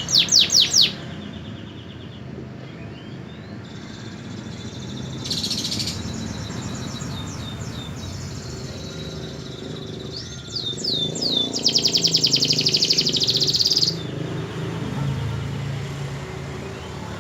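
Domestic canary singing: short phrases of sweeping whistled notes, with a loud, rapid trill from about eleven to fourteen seconds in, over a steady low background hum.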